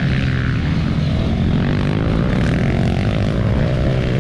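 Dirt bike engines running on a motocross track, a steady engine drone with one bike's pitch climbing through the middle and dropping off near the end as it accelerates and then backs off.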